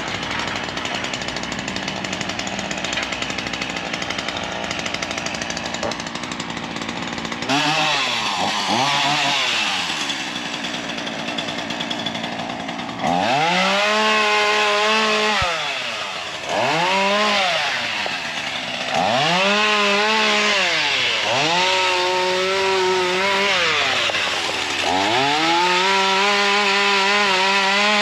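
Ryobi 37cc two-stroke gas chainsaw running at a steady idle, then from about seven seconds in revved up and let back down again and again, each burst of throttle lasting one to three seconds.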